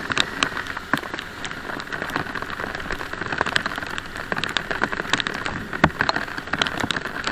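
Heavy rain falling: a steady hiss with dense, sharp raindrop ticks close to the microphone.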